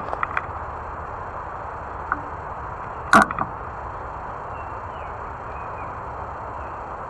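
Steady rolling noise of a fat-tire e-bike on the move, with a few light clicks and one sharp clattering knock about three seconds in.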